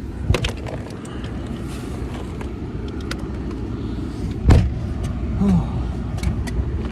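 Car running, a steady low rumble heard from inside, with a few clicks and one louder knock about four and a half seconds in.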